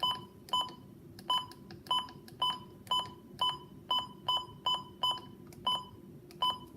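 Midland WR120 weather radio beeping as its buttons are pressed repeatedly to set the clock: about fourteen short electronic beeps, each with a faint button click, roughly two a second, stopping near the end.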